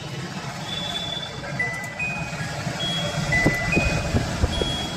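Kutchina Venisa kitchen chimney's blower motor running with a steady whooshing noise and several sharp knocks in the second half: the noise fault the chimney is being repaired for.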